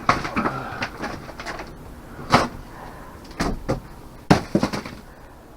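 Irregular knocks and clatter of boards being pried and knocked loose while a porch roof and ceiling are torn out. There are about seven separate impacts, the loudest two coming a little before halfway and about three quarters through.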